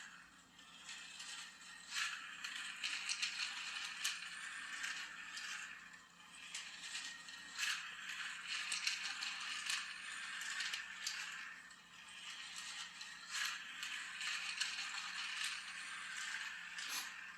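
Small battery-powered toy race car running on a plastic track: a whirring, rattling clatter with sharp clicks. It swells and fades about every five to six seconds.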